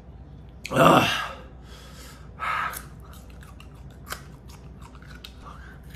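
A man groans "ugh" about a second in, then bites into and chews a raw onion, making a quick run of crisp crunching clicks.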